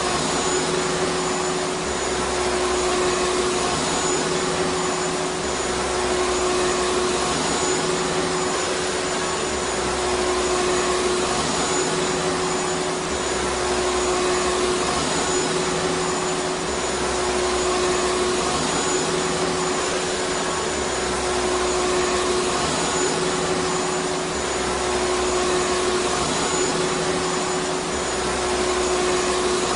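Vacuum cleaner running steadily: a constant rushing hiss with a steady motor hum, and a low rumble underneath that comes and goes every few seconds.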